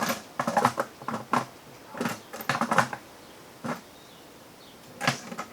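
Socket wrench clicking and rattling in several short spells as it turns a chicken watering nipple into a plastic bucket.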